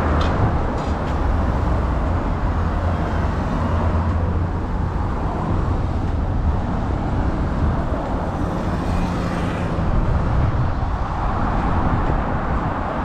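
Steady road-traffic noise: a continuous low rumble of vehicles and tyres on a busy road.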